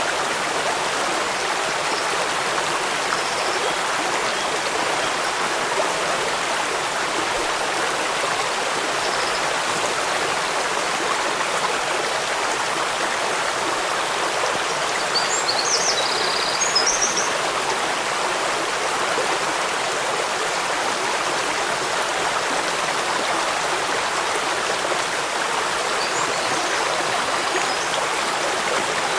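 Steady, unbroken rush of running water, a stream or waterfall, with a few brief high chirps about halfway through.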